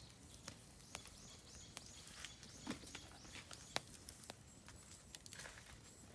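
Oak firewood crackling in a campfire, with scattered sharp pops, the loudest a little before four seconds in. A small bird sings a quick run of about eight short, high, arched notes from about a second in.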